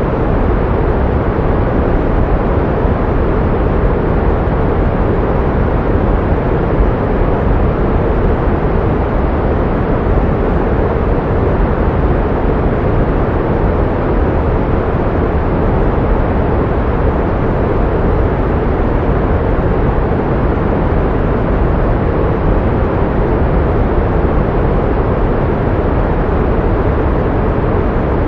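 Pink noise: a steady, even rushing hiss, deeper and softer than white noise, that does not change at all.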